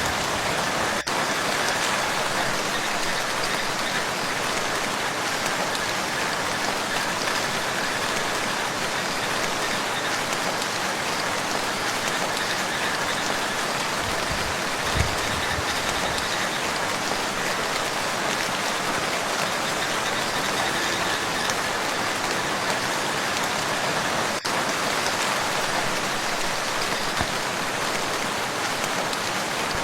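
Steady rain falling on a lake, an even hiss of drops on water. One brief low thump about halfway through.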